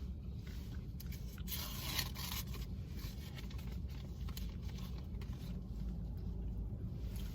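Paper burger wrapper rustling and tearing as it is pulled back, loudest about one and a half to two and a half seconds in, over a steady low hum.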